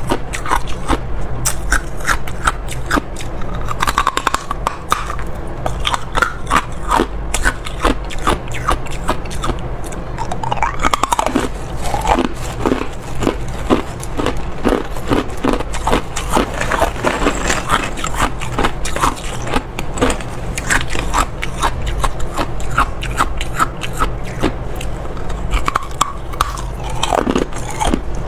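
Ice being bitten and chewed: a dense, unbroken run of crunching and crackling as the pieces break between the teeth.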